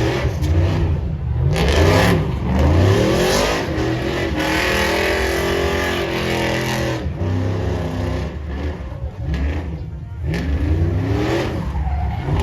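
Truck engine revving repeatedly, its pitch rising and falling in about six quick blips, with one longer, held rev in the middle.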